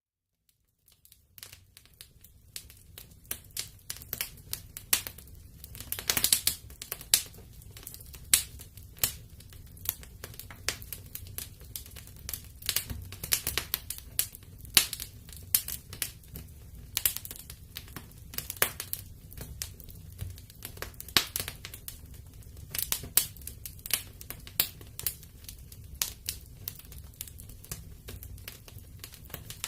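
Wood fire crackling in a fireplace: irregular sharp pops and snaps over a steady low rumble of the flames. It starts from a second of silence and builds up over the first couple of seconds.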